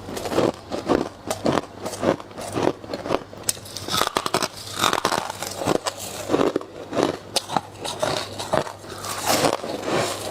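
Close-up crunching of frost being bitten and chewed, in a quick run of crisp crunches, two to three a second.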